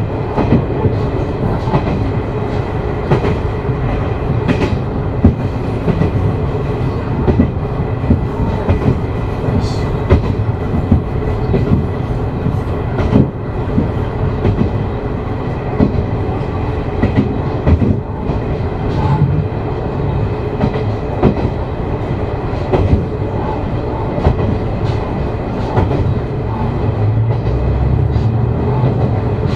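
Umisachi Yamasachi diesel railcar running along the track, heard from inside the car: a steady low engine and running drone with wheels clicking over rail joints again and again. The low engine hum grows stronger near the end.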